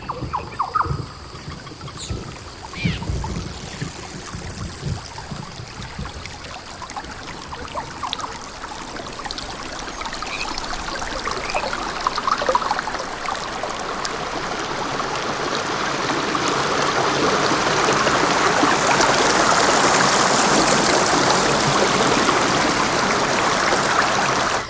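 Running water, a steady rushing that grows louder through the second half. There are a few low thumps and short high chirps in the first few seconds.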